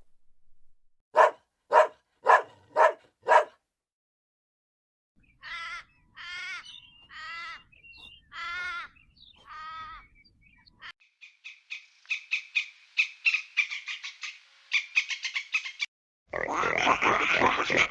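A run of different animal calls one after another: five short sharp calls about half a second apart, then five longer wavering calls about a second apart, then a fast chattering trill, and about two seconds from the end a loud, dense, noisy chorus.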